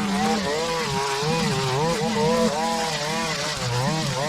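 Small petrol engine of lawn-care equipment running hard, its pitch wavering up and down repeatedly as the load changes while it cuts overgrown grass.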